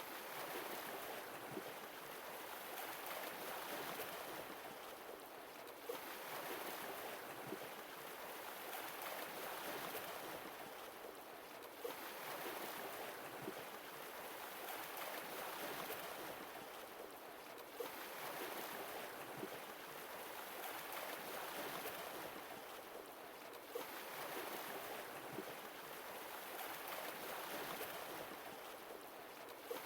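Sea waves washing in and ebbing, swelling and falling back about every six seconds, five times over. A short click marks the start of each swell.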